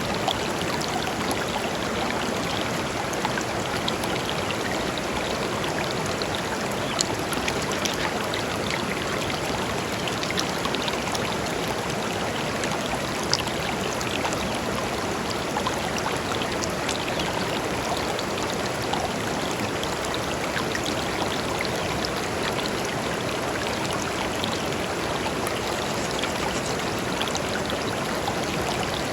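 Shallow river flowing steadily over stones, a continuous rush of water with small splashes and trickles scattered through it.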